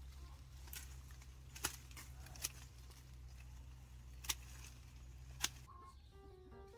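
A few sharp clicks and taps over a low steady hum, about five in all; near the end a music track with a stepping melody comes in.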